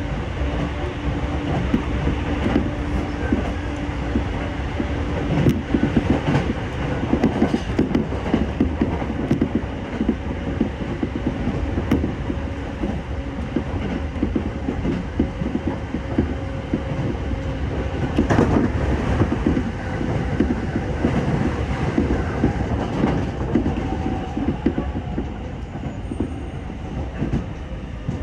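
Sōbu Line local commuter train running along the line, heard from inside the carriage: a steady rumble of wheels on rail with occasional clicks over the track, and a steady hum.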